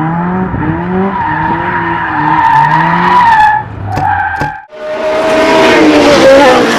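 High-revving car engine, its pitch climbing and dropping in repeated steps. About halfway through it breaks off and a second, noisier burst of engine and tyre sound follows, its pitch slowly falling.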